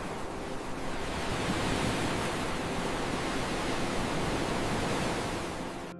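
Ocean waves and wind making a steady rushing noise that swells a little after about a second and cuts off abruptly just before the end.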